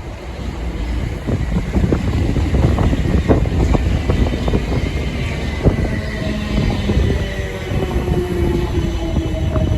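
Electric passenger train passing through the station, a steady rumble with rapid wheel clicks over the rail joints. About six seconds in, a few steady tones join it, some sinking slightly in pitch.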